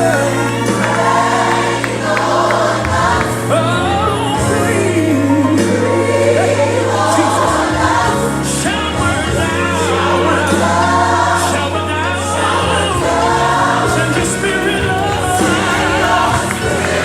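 Gospel worship music: a choir singing over a steady band accompaniment with sustained bass.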